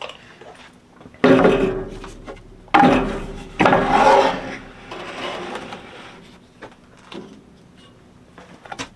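Wooden boards being handled on a workbench: three loud knocks and scrapes in the first half, then lighter clicks and taps.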